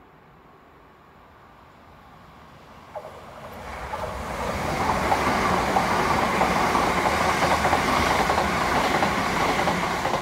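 Eight-car Class 379 Electrostar electric train, two coupled units, passing through the station without stopping. Its sound swells from about three seconds in to a loud, steady rush of wheels on the rails that holds to the end, with a single sharp click as it starts to build.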